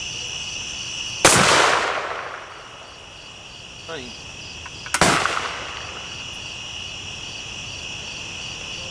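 Two sharp explosive bangs, about a second in and again near five seconds, each trailing off for about a second: oxyhydrogen (HHO) gas igniting in a hollow tree cavity. Crickets chirr steadily throughout.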